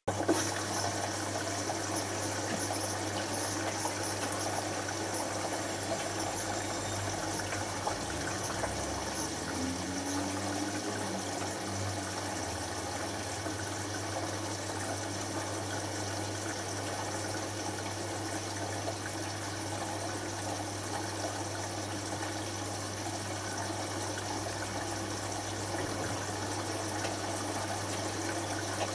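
Hotpoint HF8B593 washing machine moving water in its rinse stage. It starts suddenly, then runs steadily as a rush of water over a constant low electrical hum.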